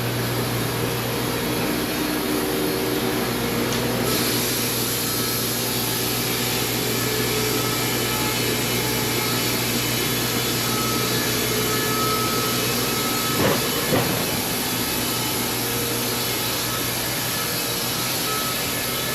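Wood-Mizer band sawmill running with its blade cutting through a log: a steady hum under a loud, even sawing noise that turns brighter and hissier about four seconds in, as the blade bites into the wood.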